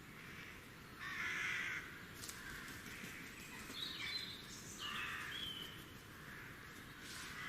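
Birds calling: harsh, raspy calls about a second in, near five seconds and near the end, with a few short high chirps in between around four seconds.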